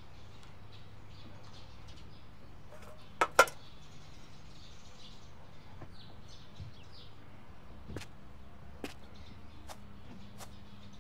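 Birds chirping faintly and steadily. Two sharp clicks come a little over three seconds in, louder than anything else, with a few fainter ticks in the second half.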